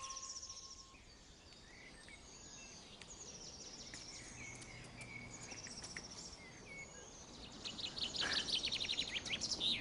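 Woodland birds singing: scattered short, high chirps and twitters, then a loud, fast trill in the last two seconds.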